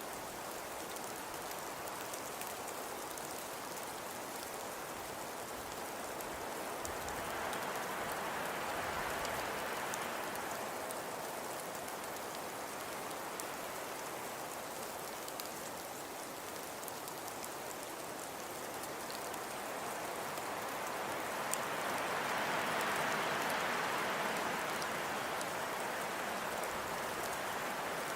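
Steady hiss of falling precipitation, with faint pattering on a surface. It swells louder twice, about a third of the way in and again near the end.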